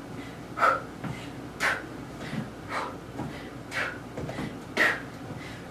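A woman's sharp, forceful exhales through the mouth, about one a second, in time with her kicks.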